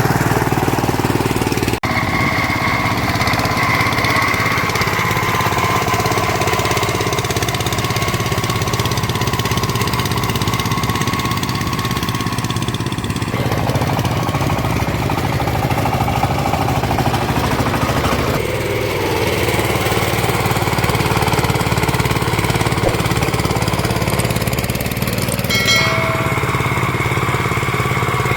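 VST Shakti 130 DI power tiller's single-cylinder diesel engine running steadily, with the sound changing abruptly a few times.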